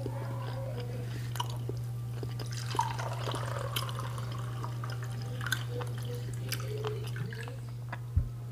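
Close-up wet chewing and mouth-smacking with small scattered clicks of fingers working food, over a steady low hum.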